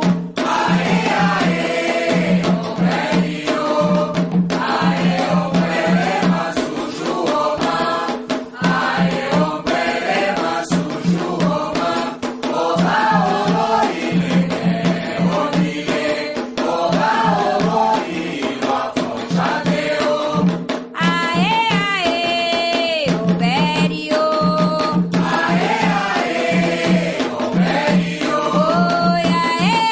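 Candomblé-style devotional chant: voices singing in call-and-response fashion over a steady drum beat and rattle. About two-thirds of the way through, a single voice comes to the front with long held notes.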